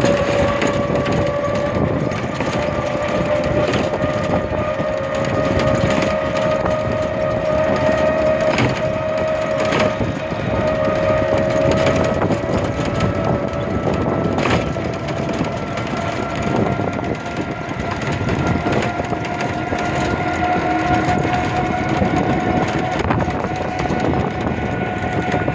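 A steady rushing noise with a motor whine that rises slowly in pitch throughout, and a few scattered sharp knocks.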